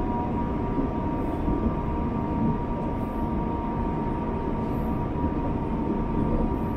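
Electric multiple-unit train running: a steady low rumble with a faint steady high hum over it.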